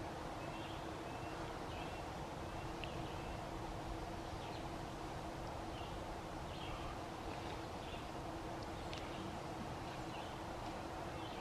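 Quiet outdoor ambience: birds chirping, with short high calls every second or so, over a faint steady hum.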